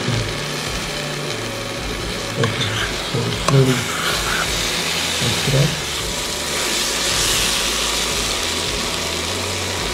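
Chicken, onions and spice masala sizzling in ghee in the base of a steel pressure cooker, with a spoon scraping and stirring through it. The chicken is just starting to heat up and cook.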